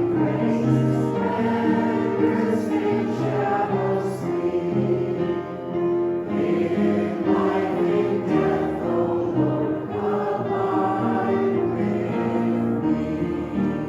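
Choir singing a hymn in parts, sustained chords moving from note to note.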